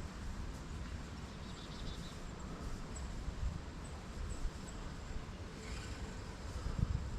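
Wind buffeting the microphone as an uneven low rumble, with a few faint high ticks.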